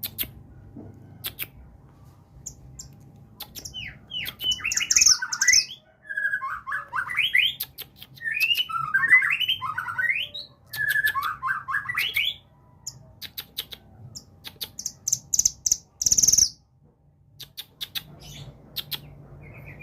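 Caged songbird sold as a mantenan gunung singing in fast, tightly packed phrases of rising chirps with high piercing notes, in several bursts with short pauses between them. There are scattered sharp clicks throughout and one brief loud rustle near the end.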